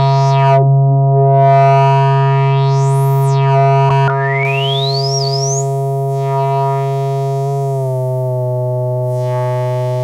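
Intellijel Eurorack synthesizer, a Rubicon 2 oscillator through a Morgasmatron filter, holding one steady low drone note. Its bright upper overtones sweep up and back down about three seconds in, and a thin whistling tone glides upward a second later.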